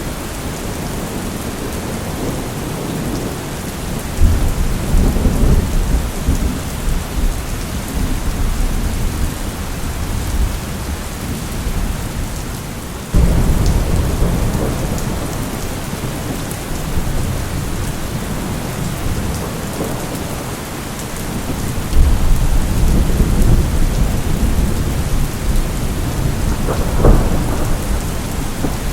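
Thunderstorm: steady rain with rolling thunder. A low rumble builds about four seconds in, a sudden loud clap comes about halfway through and rolls slowly away, and another rumble near the end carries a sharp crack.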